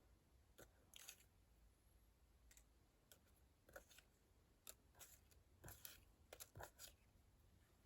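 Faint, scattered light clicks and rustles of small cardstock leaves being laid and shifted on a card, most of them bunched in the second half.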